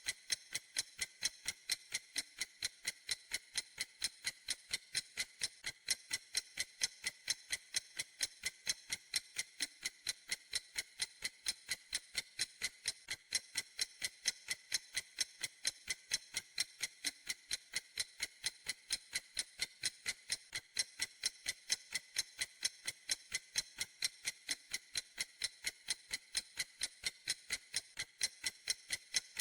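Clock ticking steadily: rapid, evenly spaced, crisp high-pitched ticks with no break or change in pace.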